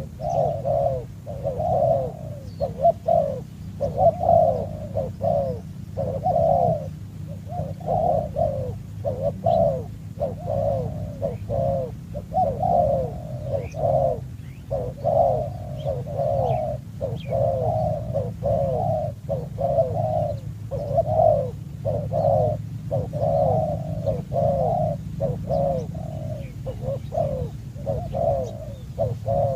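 A dove cooing over and over in a fast, unbroken series of short coos, about two a second, with a steady low hum underneath.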